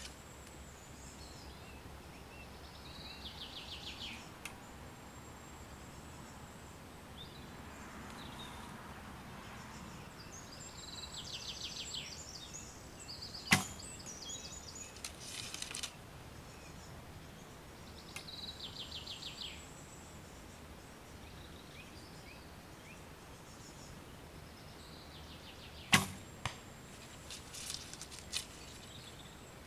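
Two arrows shot from a bow, about twelve seconds apart, each a sharp snap of the string on release; the second shot is followed about half a second later by the arrow striking the target. Birds sing short high trilled phrases between the shots.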